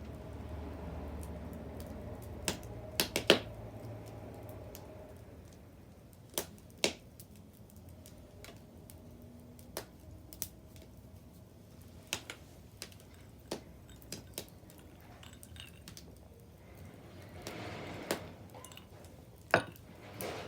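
Wood bonfire crackling, with sharp pops at irregular intervals, a quick cluster of the loudest about three seconds in and another loud pop near the end, and a brief soft rushing swell shortly before it.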